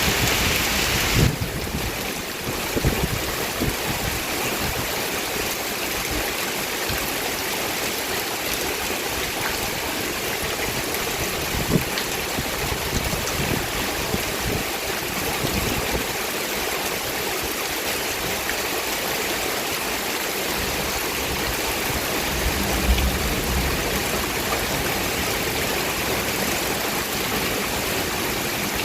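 Heavy rain falling steadily, with a rush of running water. The hiss changes abruptly about a second in, and a few dull low thumps come through it.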